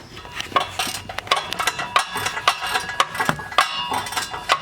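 Metal hand tools and sockets clinking and clanking as a toolbox is rummaged through: a quick, uneven run of sharp knocks with a metallic ring.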